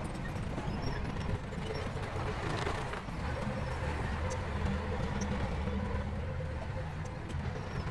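Heavy diesel engine of a bulldozer running steadily, with a few faint clicks over it.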